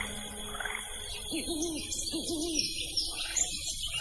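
A bird's low hooting call, given twice in quick succession, with small birds chirping high and thin behind it as the chirping builds toward the end.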